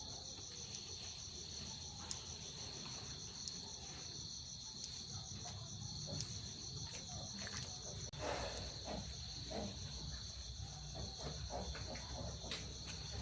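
Steady high-pitched chorus of insects trilling, with an even pulsing texture, over a low background rumble and a few faint knocks.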